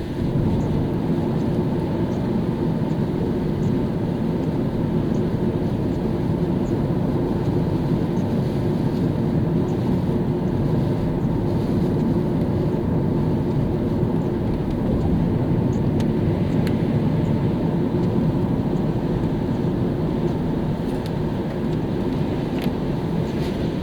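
A car driving at steady speed on a wet road in the rain: an even, unbroken rumble of tyres and engine, with a few faint ticks high above it.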